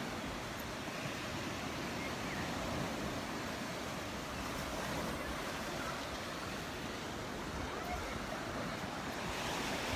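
Steady wash of small waves breaking on a sandy beach, with a little wind on the microphone.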